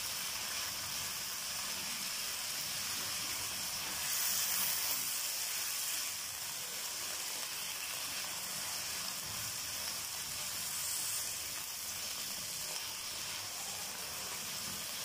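Boneless chicken strips sizzling in hot oil in a nonstick wok: a steady frying hiss that swells briefly about four seconds in.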